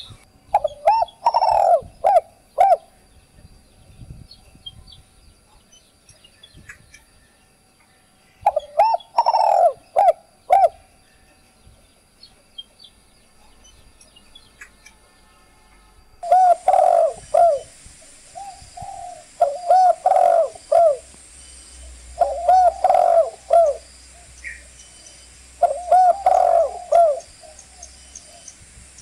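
Spotted dove (chim cu gáy) cooing in phrases of several short notes. Two phrases come about eight seconds apart, then a phrase about every three seconds in the second half. Faint high chirps of small birds sound in the background.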